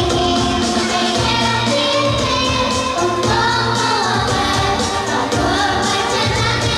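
Vietnamese song sung over an instrumental backing track with a steady beat.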